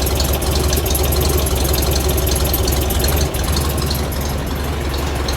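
Air-cooled VW bus flat-four engine idling steadily, with a busy valvetrain ticking over it. The owner says it is still noisy and puts this down to its cam, solid rocker shafts and heavy-duty pushrods.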